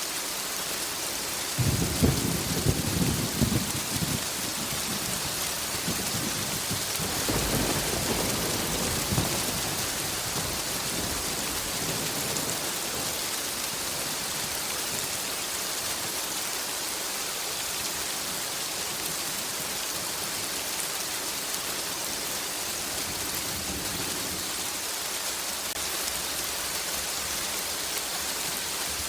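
Steady heavy rain hissing, with thunder rumbling twice: a crackling roll about two seconds in and a longer, softer rumble from about seven to ten seconds in.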